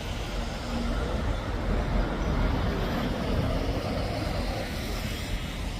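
Steady road traffic noise, cars going by in a continuous rumble.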